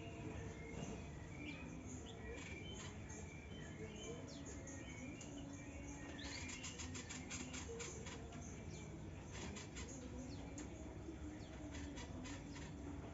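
Young white-rumped shama giving faint short chirps, with a quick run of rapid clicking notes in the middle.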